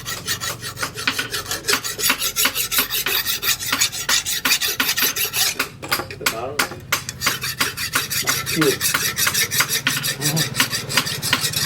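Steel file rasping along a forged steel sickle blade in rapid, even strokes, about five a second.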